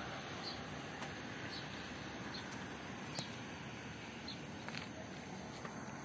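Outdoor ambience: a steady background hiss with short, high bird chirps repeating every second or so.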